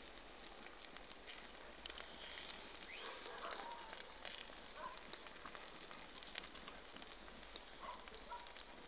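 Wood fire crackling faintly, with scattered small pops and ticks.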